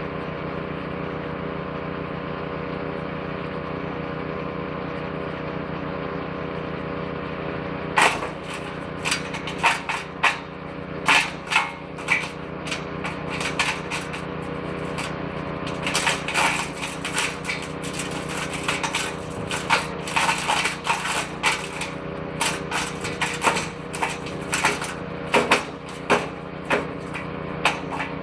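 Woodchipper-shredder's petrol engine running steadily; about eight seconds in, branches start going into the shredder drum, giving irregular sharp cracks and snaps in clusters over the engine as the wood is chewed up a bit at a time.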